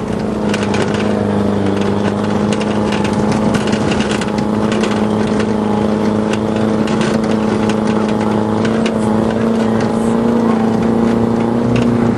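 Off-road vehicle engine running at a steady speed, heard from aboard, with frequent rattles and knocks from the ride over rough track.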